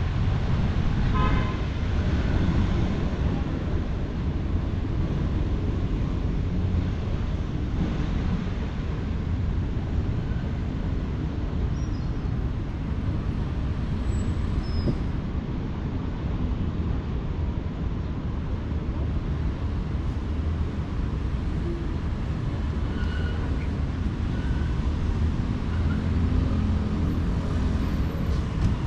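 Steady rumble of city street traffic, with a short vehicle horn toot about a second in.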